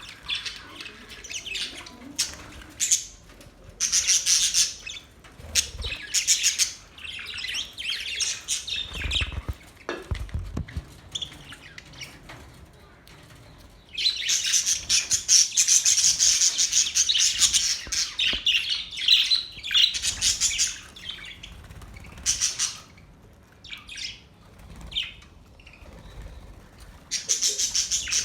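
Pet budgerigars chirping and chattering in irregular bursts of high warbling calls, busiest and loudest from about halfway through.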